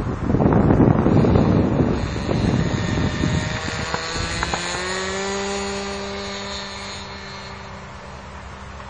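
Model airplane's OS .46 glow engine running at full throttle on takeoff. A loud rushing noise in the first three seconds gives way to a steady, high buzzing engine tone that drops slightly in pitch and fades as the plane climbs away.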